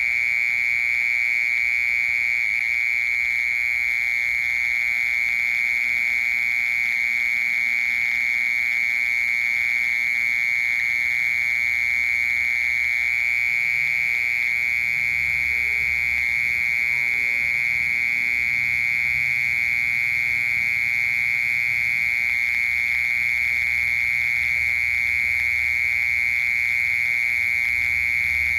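Mole cricket singing a continuous, unbroken trill on one high buzzing pitch, steady in level throughout. A faint low rumble sits underneath from about a third of the way in.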